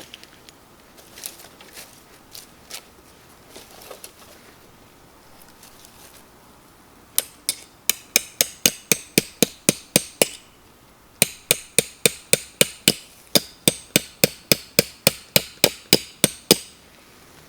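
Two runs of rapid, evenly spaced sharp strikes, about four or five a second, each with a bright, ringing click. One run starts about seven seconds in, the other about eleven seconds in, with a short pause between them.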